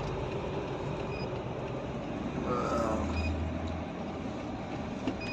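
Steady engine and road noise inside a moving cargo truck's cab, with a brief louder swell about halfway through.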